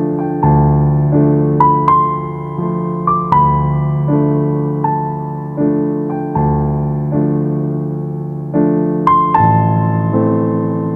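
Background piano music: sustained chords struck about once a second, with a few higher single melody notes ringing over them.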